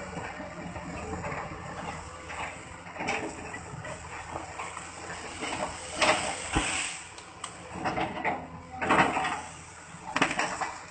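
Caterpillar excavator chipping felled oil-palm trunks: a steady machine noise broken by irregular loud crunching and cracking bursts, the strongest about six, nine and ten seconds in.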